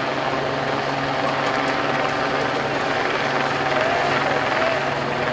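Helicopter overhead, a steady rotor and engine drone.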